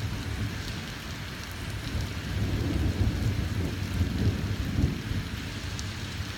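Thunder rumbling over steady rain during a thunderstorm. The rumble eases, then swells again between about two and five seconds in.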